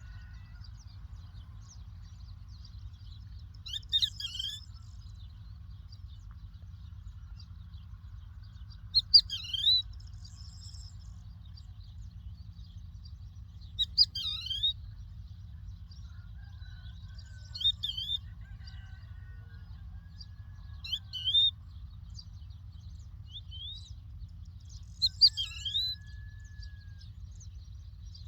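A lark calling: short quick phrases of high chirps every four to five seconds, with fainter whistles from other birds between them. A steady low rumble runs underneath.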